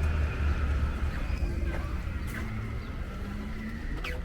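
Outdoor street sound of road traffic running past, a low rumble that is loudest in the first second or so.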